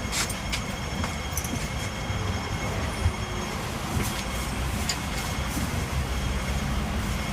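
Hong Kong double-decker electric tram running on street track: a steady low rumble with a faint steady whine, broken by a few sharp clicks and knocks, the loudest about three seconds in.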